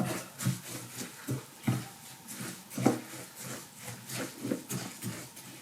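Seeds and crushed peanuts being stirred into melted lard in a bowl: irregular wet scraping and clicking of the mix against the bowl, a few strokes a second.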